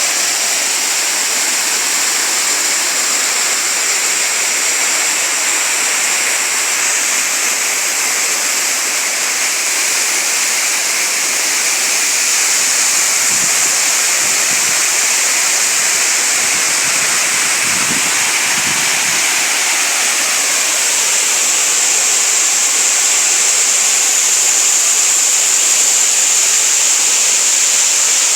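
Waterfall and stream water falling and rushing steadily, a continuous hiss, with a few faint low thumps in the middle.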